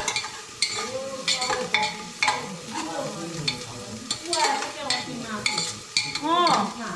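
Kitchen work: irregular clicks, taps and scraping of utensils being handled and stirred, with a short rising-and-falling pitched sound near the end.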